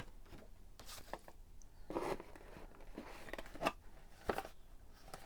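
Faint rustling and clicking of packaging being handled as a box is unpacked, with a brief rustle about two seconds in and a few scattered light clicks.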